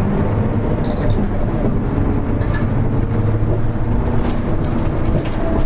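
Interior running sound of a Hino Rainbow HR (KL-HR1JNEE) city bus: the diesel engine drones steadily with road noise, and its note drops away about halfway through as the bus eases off. A few light clicks and rattles come near the end.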